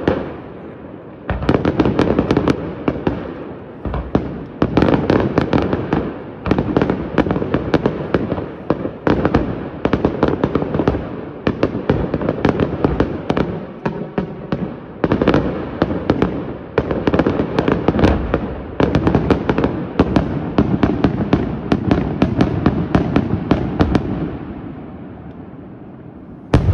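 Fireworks display: a rapid, continuous barrage of aerial shell bursts and crackling reports with brief lulls. It thins out for the last couple of seconds, then a loud burst comes right at the end.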